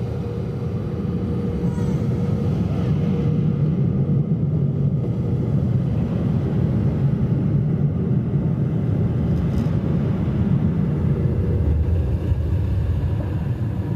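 Automatic car wash equipment running around the car, heard from inside the cabin as a loud, steady low rumble, with a thin steady hum that fades out about six seconds in.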